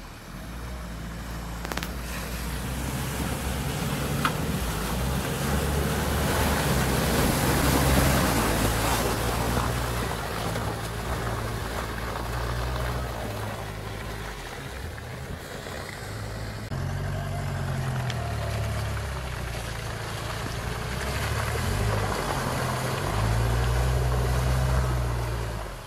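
Mitsubishi Delica van driving, its engine note shifting up and down under a steady rush of wind and road noise, louder around the middle and again near the end.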